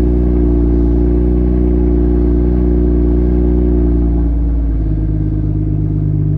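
BMW M240i's B58 turbocharged inline-six, with its muffler deleted and Dynomax race bullet resonators fitted, idling loudly at its raised cold-start idle. About four to five seconds in the revs drop and the exhaust note settles lower as the fast idle comes down.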